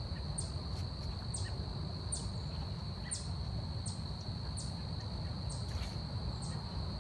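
Forest ambience: a steady high insect trill runs throughout, with a short high call that falls in pitch repeated roughly once a second, over a low rumbling background.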